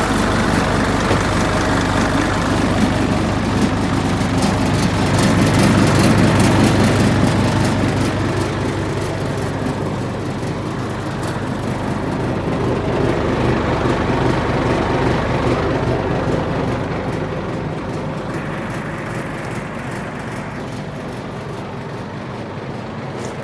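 Hino Ranger truck's diesel engine running, growing louder for a few seconds a quarter of the way in and then easing back.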